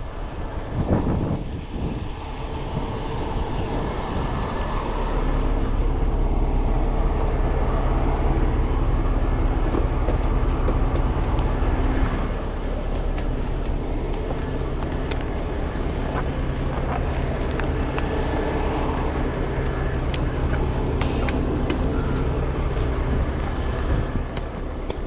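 Heavy truck diesel engine running at raised revs. It climbs over the first few seconds, holds steady, then eases down a little about halfway through. Scattered clicks sound in the middle, and a short high-pitched sound comes near the end.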